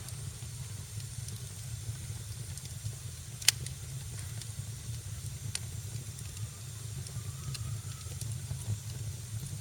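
Wood fire crackling in a fireplace: a steady low rumble and hiss with scattered small crackles, and one sharp loud pop about three and a half seconds in.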